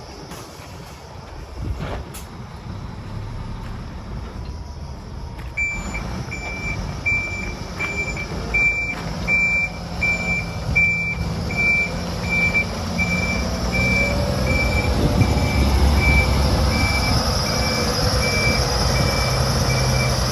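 Volvo A40D articulated dump truck running, with its reversing alarm starting up about five seconds in and beeping steadily and evenly from then on; the engine grows louder in the second half as the machine works.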